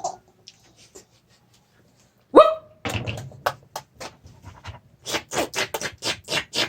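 A toddler's voice: a short high cry about two seconds in, then a run of quick rhythmic breathy huffs, about five a second towards the end.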